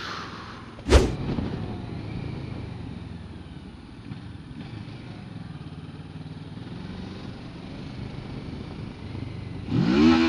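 Kawasaki Versys 650 parallel-twin engine running at a steady road speed, heard from the rider's helmet under a haze of wind noise. A single sharp knock sounds about a second in.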